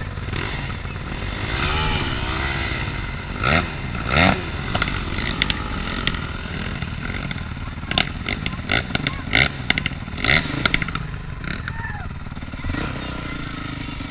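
Motocross dirt bike engine revving up and down as the bike is ridden, with a quick run of sharp knocks and clatter about two-thirds of the way in.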